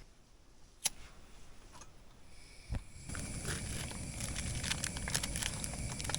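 Camp cooking on a small stove: a couple of sharp clicks, then about halfway through a steady rushing sound comes on, like a burner running, with small crackles and ticks scattered over it.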